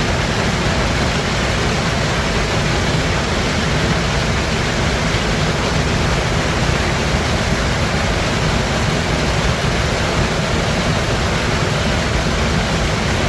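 Steady rushing of river water, a loud even noise with no breaks.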